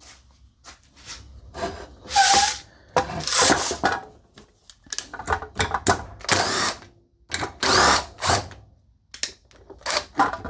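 A string of short, irregular scraping and grinding bursts as the lid of a homemade polishing tumbler's tub is worked open.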